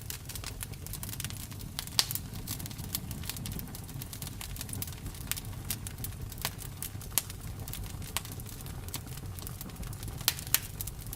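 Campfire burning, the wood crackling with irregular sharp pops over a steady low rumble of the flames. A louder pop comes about two seconds in, and two more come close together near the end.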